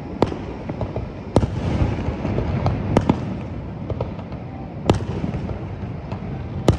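Aerial fireworks shells bursting: about six sharp bangs at irregular intervals, two of them close together about three seconds in, over a steady low rumble.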